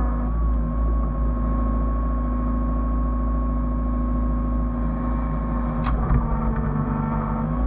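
Hyundai excavator's diesel engine running steadily under a low rumble, with a steady whine over it. A short clatter comes about six seconds in.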